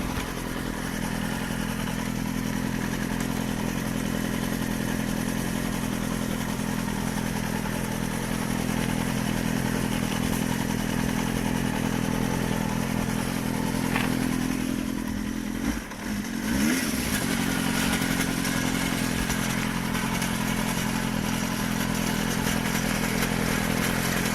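Suzuki GSX-R400 (GK73A) inline-four engine idling on its side stand, with a rattle from the engine. Its pitch rises and falls once in a quick throttle blip about two-thirds of the way through. The rattle remains with a new cam chain tensioner, and its cause is unknown to the owner.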